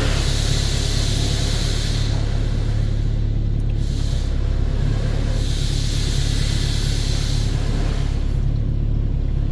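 Water spray from an automatic car wash hissing against the car's body and windows, heard from inside the cabin. The hiss fades about two seconds in, swells again a few seconds later and dies away near the end. A steady low hum runs underneath.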